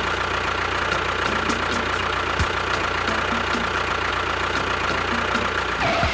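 A steady engine running sound, like a small vehicle engine idling, with faint regular ticks about three times a second.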